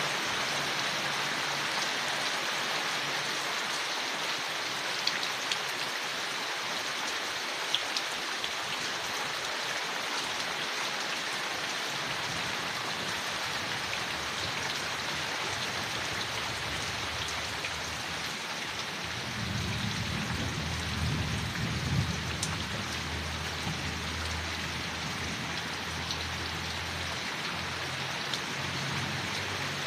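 Steady rain falling on forest leaves, with a few distinct drops ticking. A low rumble swells for several seconds past the middle.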